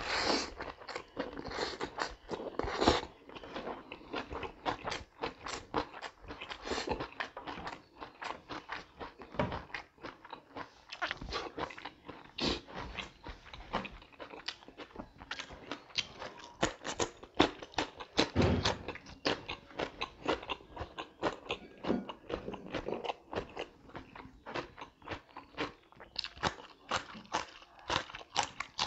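Close-miked chewing and crunching of mouthfuls of food, with many quick wet clicks and crackles and a few louder crunches.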